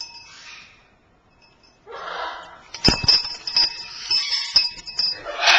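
Short raspy noises from a pet parrot, then metallic clinking and knocking over a steady bell-like ringing as it handles a metal cage toy. The clinking starts with a hard knock about three seconds in and goes on in quick irregular strikes.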